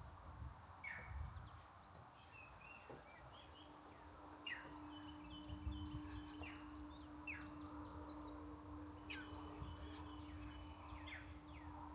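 Wild birds calling: repeated quick falling chirps and short twittering notes from an unidentified bird, not an eagle. A faint steady low hum comes in about a third of the way through.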